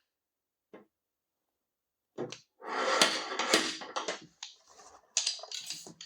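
A stud-welder dent puller being worked on a car body panel: a single click, then a burst of rasping scraping and clacking metal for about two seconds, with a few more sharp clicks near the end.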